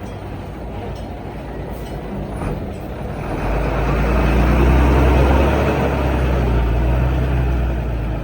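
Heavy diesel engine of earthmoving machinery running, building up to a louder, working pitch about three seconds in and holding there, then cutting off suddenly at the end.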